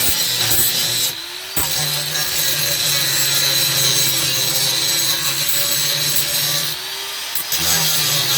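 A handheld power tool runs steadily against the sheet metal of a truck floor pan, with a steady high whine. It eases off briefly twice, about a second in and near the end.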